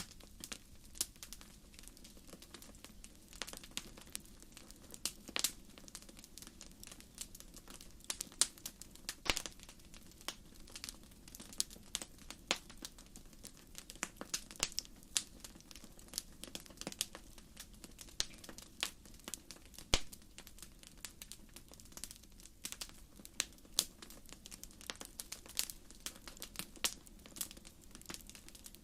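Wood campfire burning, with the firewood crackling and popping in many irregular sharp snaps over a soft, steady low rumble of the flames.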